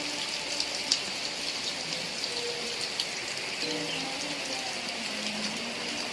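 Steady heavy rain: an even hiss with scattered sharp drops tapping close by, one louder tap about a second in. Faint wavering tones sit underneath.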